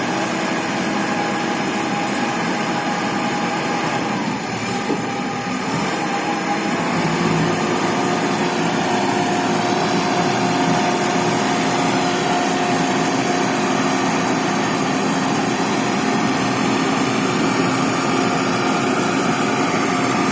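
Self-loading concrete mixer running steadily, its engine and hydraulics giving a whine with several held tones. The pitch shifts about five seconds in, then holds steady.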